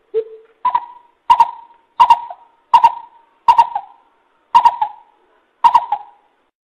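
Coucal (bubut) calling: one lower hoot, then a run of about seven short, deep hooting notes, each starting sharply, roughly one every two-thirds of a second.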